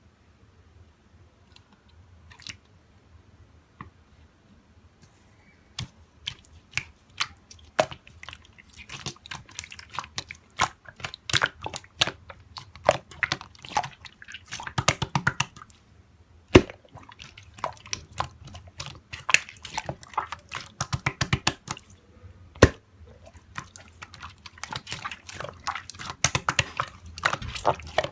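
Slime being squished and poked by hand, giving dense runs of sticky clicks and popping air bubbles. It is faint for the first few seconds, then busy clicking with a few sharper snaps.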